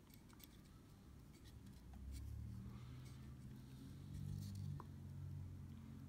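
Faint scratching and small clicks of careful hand work at a bench. A low steady hum comes in about two seconds in.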